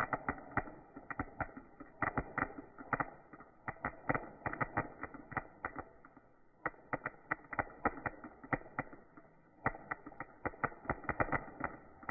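Fireworks going off in rapid, irregular volleys of pops and cracks, with short lulls about six and nine seconds in.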